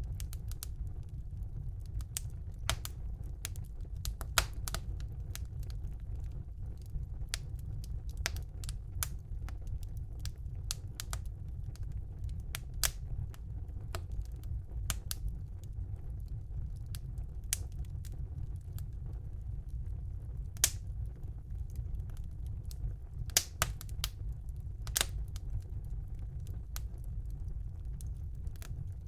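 Wood fire burning in a fireplace: a steady low rumble of the flames with irregular crackles and pops from the logs, a few sharper snaps standing out.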